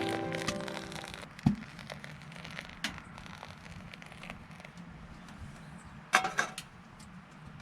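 Background music fading out, followed by scattered clicks and knocks: a sharp knock about one and a half seconds in and a louder clatter of clicks about six seconds in.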